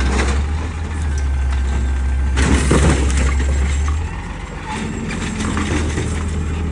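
Peterbilt 520 garbage truck's diesel engine running with a steady low rumble. A short rushing burst of noise comes about two and a half seconds in, and the engine sound drops off about four seconds in.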